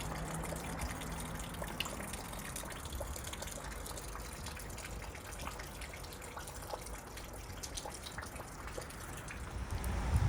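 Snowmelt water running in a steady trickle, with scattered drips.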